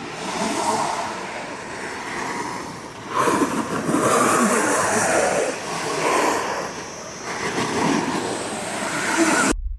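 A board sliding and scraping over the slope, with wind rushing on the microphone. It swells and eases as the rider turns, then cuts off suddenly near the end.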